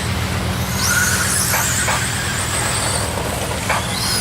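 Radio-controlled racing trucks' motors whining as they race, the pitch rising as they accelerate about a second in, with a few sharp clicks. A steady low hum runs underneath.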